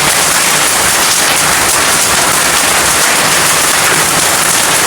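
Rain falling steadily, a loud, even hiss of drops on surfaces.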